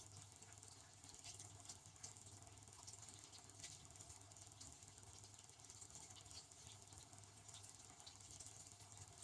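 Devanti benchtop dishwasher running a cycle, heard faintly: a steady low hum with light, irregular ticking and patter.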